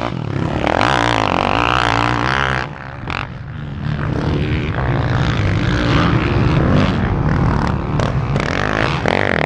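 Kawasaki KX450F dirt bike's four-stroke single with a loud Two Brothers exhaust, revving hard under throttle on a motocross track. It eases off briefly about three seconds in, then builds again.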